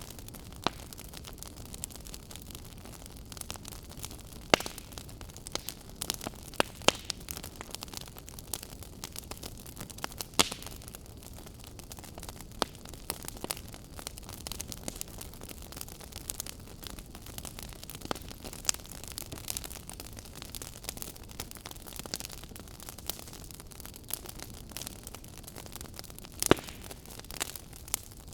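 Crackling fire: a steady low hiss with irregular sharp pops and snaps, a few of them much louder.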